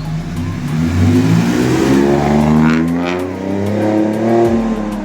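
Car engine accelerating, its pitch climbing, then dropping at a gear change about three seconds in and climbing again.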